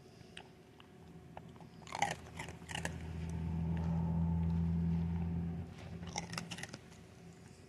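Dachshund chewing and crunching food, with clusters of crisp crunches about two seconds in and again near six seconds. A low steady hum swells and fades in between.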